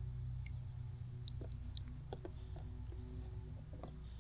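Steady high-pitched drone of an insect chorus, with scattered small clicks and knocks from about a second in.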